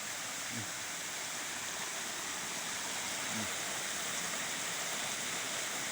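Water falling and splashing at a small stream waterfall: a steady, unbroken hiss.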